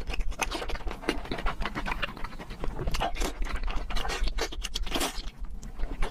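Close-up mouth sounds of someone eating: rapid chewing with many quick smacking clicks.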